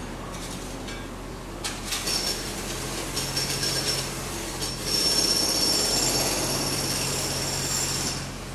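Pneumatic hammer running in a fast, continuous stream of strokes, with a high metallic ringing squeal over it. It gets louder about two seconds in, is loudest from about five seconds, and eases off near the end.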